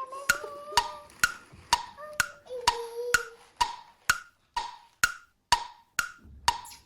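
Steady wood-block-like ticking, about two clicks a second, each click with a short hollow ring, and faint held tones under the first few seconds.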